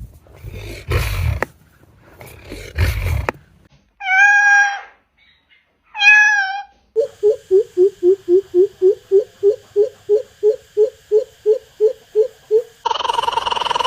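A series of strange bird calls. First three harsh, rasping bursts, then two wavering, meow-like cries, then a fast run of about twenty short notes at roughly four a second. A different steady call begins near the end.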